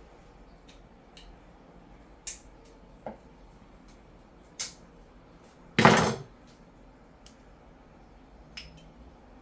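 Kitchen clatter of dishes and utensils being handled: a few light clinks, and one louder clatter lasting about half a second near the middle.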